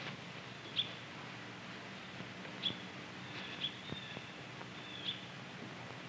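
A few faint, short bird chirps spaced a second or two apart, over a low steady hum and hiss.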